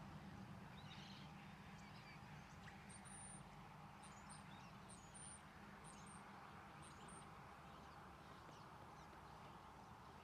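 Near silence outdoors: faint, distant small birds chirping, a scatter of short, very high chirps over a low steady background hum.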